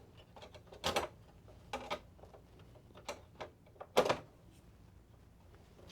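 PS5 console parts being handled as the cooling fan is fitted and plugged in: a few separate sharp clicks and knocks, the loudest about four seconds in.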